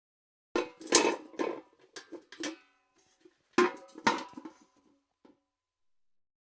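Steel bucket clanking: a quick run of five knocks with ringing metallic tones, then after a short pause two more hard knocks half a second apart and one last light tap.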